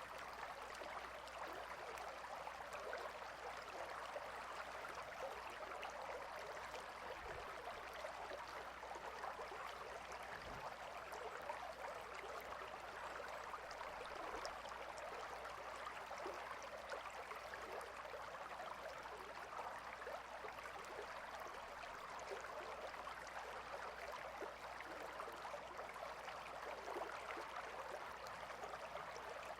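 Gentle river running steadily, a continuous even rush of flowing water with fine splashing texture.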